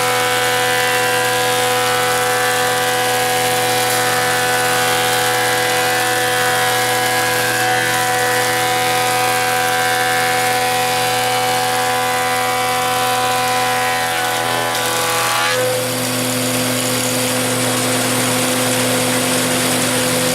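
Sears-branded Belsaw planer running steadily, a machine drone with several whining tones over it. About fifteen seconds in, the higher whine drops away and a lower tone takes over.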